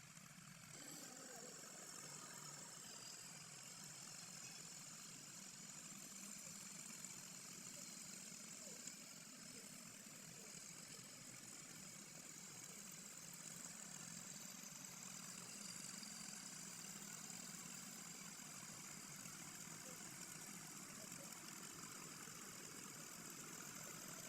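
Faint, steady tractor engine running, with a low hum and some hiss and no change in speed.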